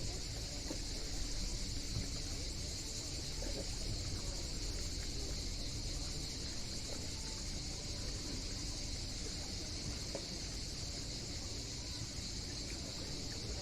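A steady chorus of cicadas, a continuous high-pitched buzz, over a low rumble.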